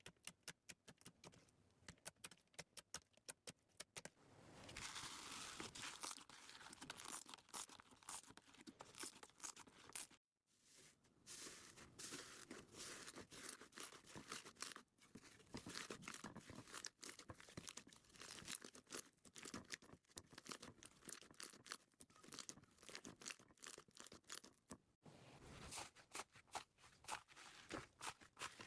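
Slime being handled and squeezed, giving a quick run of small clicks and crackles. The clicks are separate for the first few seconds, then thicken into dense crackling, broken by two brief silences, about ten seconds in and near the end.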